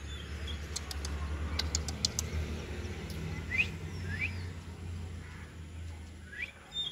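Small birds chirping, three short rising chirps a few seconds apart, over a steady low rumble that fades away near the end.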